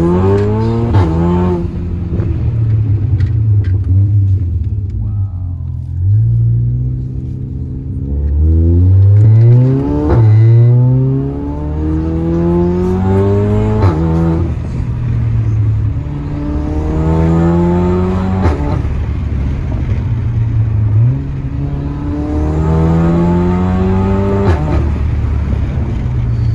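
A hybrid-turbo VW Golf R MK7's 2.0-litre turbocharged four-cylinder engine accelerating, heard from inside the cabin. Its pitch climbs through the revs and falls back suddenly, as at a gear change, several times in a row.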